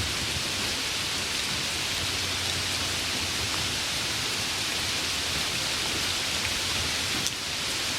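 Heavy rain falling steadily, a dense even hiss of rain on surfaces. There is a single sharp tick about seven seconds in.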